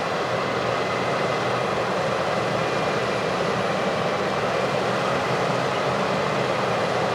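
Heavy farm machinery running steadily: a constant engine and machine noise with faint steady whining tones over it.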